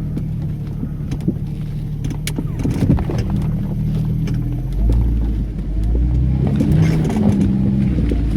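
Off-road vehicle engine running under load, then revving harder about five seconds in, its pitch rising and falling as the revs change.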